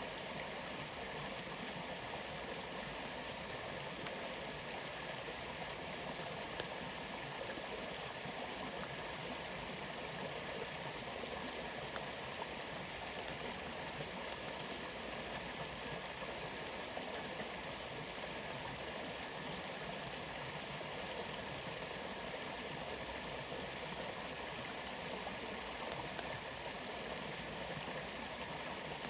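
Waterfall and flowing water rushing steadily and evenly, with no change through the stretch.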